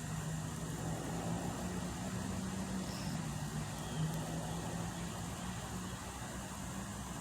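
A motor vehicle engine running at a steady idle, its pitch wavering only slightly.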